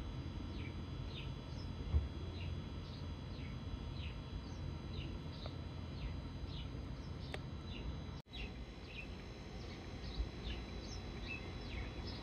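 A bird chirping over and over, short falling chirps about twice a second, over a steady low background rumble. The sound drops out for an instant about eight seconds in.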